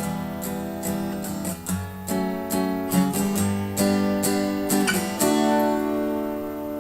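Acoustic guitar strummed in a steady rhythm, then a final chord about five seconds in that rings on and slowly fades.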